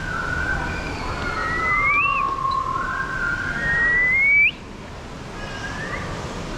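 Long whistled notes that slide down and then sweep upward, two overlapping, stopping abruptly about four and a half seconds in.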